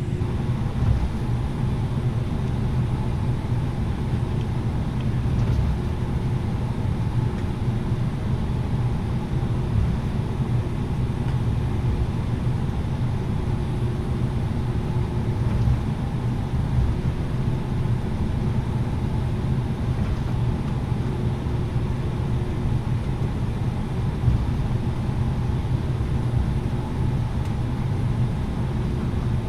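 Steady cabin noise inside an Airbus A330-900neo airliner: an even low rumble of the Rolls-Royce Trent 7000 engines and the airframe, with faint steady hums over it.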